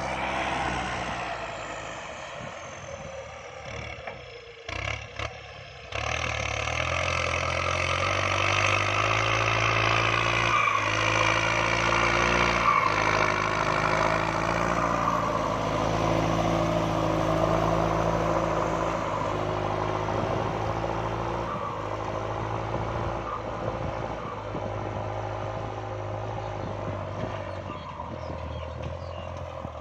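Kubota MU5702 tractor's diesel engine running steadily under load while ploughing. It is fainter for the first few seconds, with a couple of knocks about five seconds in, then louder and steady from about six seconds on.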